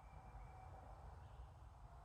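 Near-silent outdoor nature ambience: a steady low rumble with faint, thin high-pitched calls in the first second.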